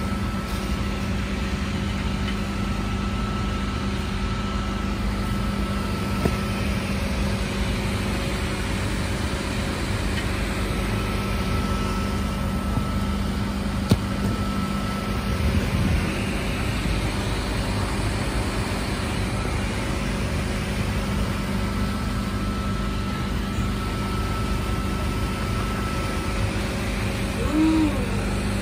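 Double-deck electric passenger train close by, moving slowly or standing, giving a steady low hum and rumble from its equipment and running gear. A faint high whine comes and goes, and there is a single sharp click about halfway through.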